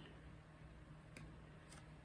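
Near silence: room tone with a low hum and two faint short clicks.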